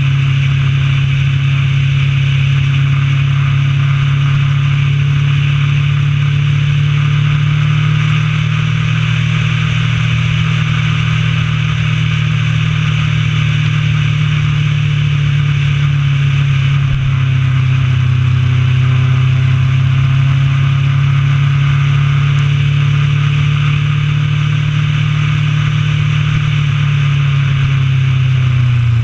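Honda CB1000R's inline-four engine running at steady cruising revs under way, with heavy wind rush. Its note falls near the end as the bike slows.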